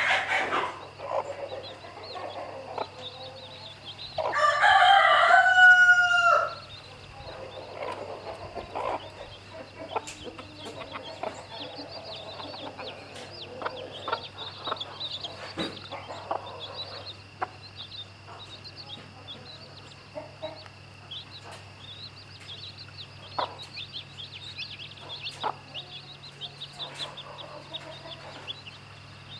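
A rooster crows once, about four seconds in, a loud call lasting about two seconds. After that come soft clucking and a steady stream of small high chick peeps, with scattered light clicks.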